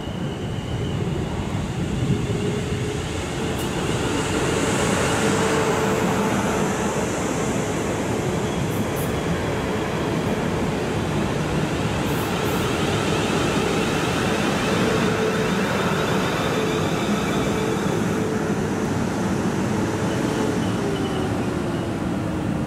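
South Western Railway electric multiple unit running past along the platform, with a steady rumble of wheels on rail. A humming tone runs under it and drops in pitch near the end.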